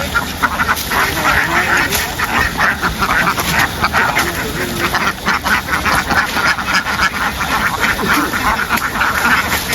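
A large flock of ducks quacking all at once, a dense, loud chorus of many overlapping calls.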